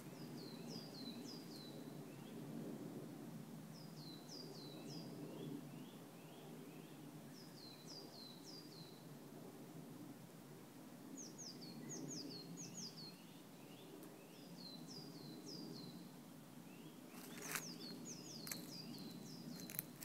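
A songbird repeating a short phrase of four or five quick falling high notes, about every three to four seconds, over a steady low background hum. Near the end, three sharp clicks.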